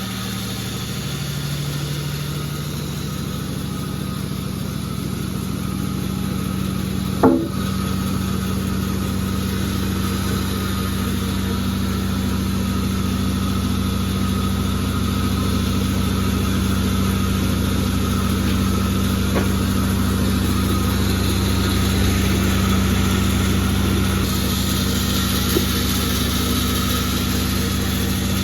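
Sawmill machine running steadily with a constant mechanical hum. A single sharp knock comes about seven seconds in.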